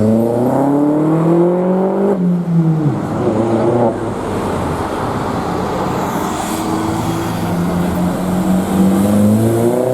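Modified car engine accelerating hard. The note climbs for about two seconds, then cuts off and falls away. A shorter rise follows, and another engine revs up near the end.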